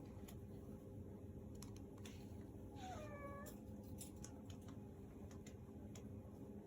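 A Persian cat gives one short meow, falling slightly in pitch, about three seconds in. A few faint clicks sound around it.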